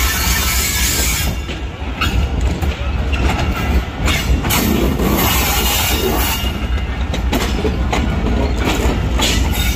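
Passenger coaches of a Pakistan Railways express train rolling past, a steady rumble of wheels on rails broken by a clack every second or two as the wheels pass rail joints.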